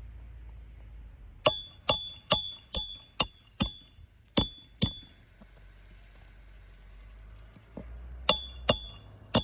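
Roofing hammer striking a steel roof snake, driving it under a shingle to cut the nails: a run of six ringing metal hits at about two a second, then two more, a pause of three seconds, and three more near the end.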